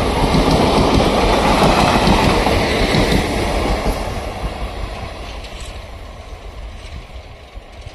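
Train hauled by twin ALCO diesel locomotives passing by: a loud rumble and rolling noise that fades steadily from about three seconds in as the train moves away.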